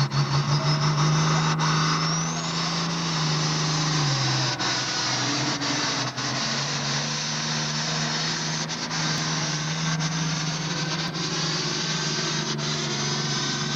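Super farm pulling tractor's diesel engine running hard at high, steady revs while pulling the sled, with a dense noise over it. The engine pitch sags briefly about four seconds in, then picks back up and holds.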